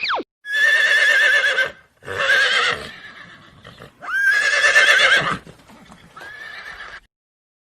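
Horse neighing: four whinnies in a row, each a wavering, quavering call about a second long, the last one quieter.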